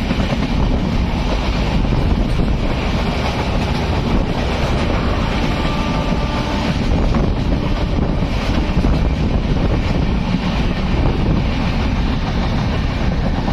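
Passenger train running at speed: a steady rumble of wheels on the track, with wind buffeting the microphone.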